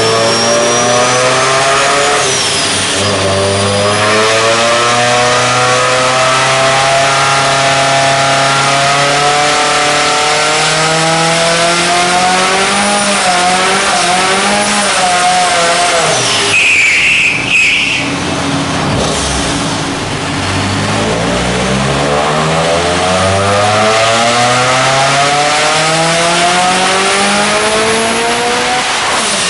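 Supercharged 2.0-litre 20-valve four-cylinder of a VW Golf Mk1 pulling at full load on a rolling-road dyno, its pitch climbing slowly and steadily. A little past halfway there is a short break with a high squeal, the revs fall, then climb again in a second long pull.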